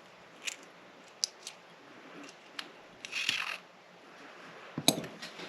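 Small metal clicks and taps from a lock cylinder and locksmithing tools being handled, with a brief scraping rustle about three seconds in and a sharper knock near the end.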